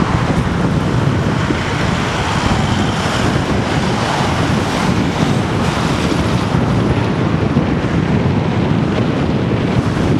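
Wind buffeting the camera microphone: a loud, steady rushing rumble with no distinct events.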